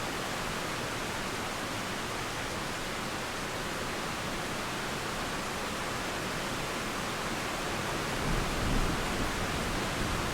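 Steady hiss of rain falling, with a low rumble of thunder beginning near the end and growing louder.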